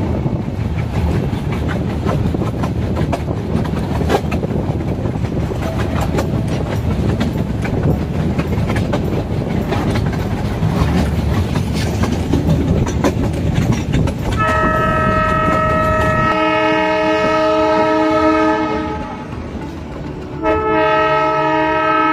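Metre-gauge passenger train running, with the steady rumble and clatter of its wheels on the track. About two-thirds in, the locomotive's horn sounds a long blast, then a second long blast starts near the end.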